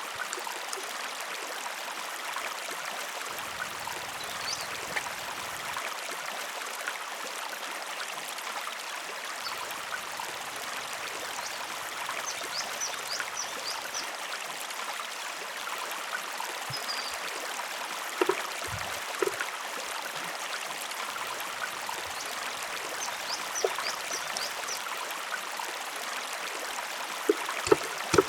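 River water flowing with a steady rush. A few sharp knocks break through, twice about two-thirds of the way in and loudest near the end.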